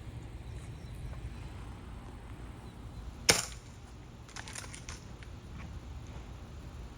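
A single sharp air-gun shot a few seconds in, followed about a second later by a few fainter clicks, over a low steady background hum.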